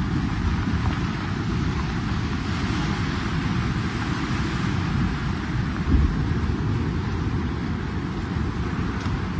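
Steady low rushing noise of fast-moving floodwater mixed with wind buffeting the microphone, with one dull bump about six seconds in.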